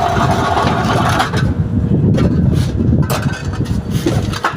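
Paver machine running, its engine rumbling steadily. A higher whine stops about a second in, and there are scattered clanks.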